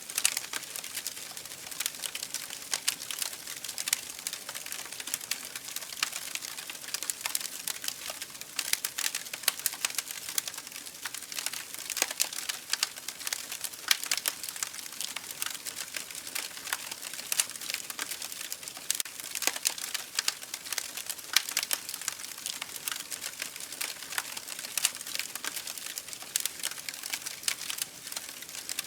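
Campfire crackling steadily: wood burning with a constant hiss and many irregular sharp pops and snaps.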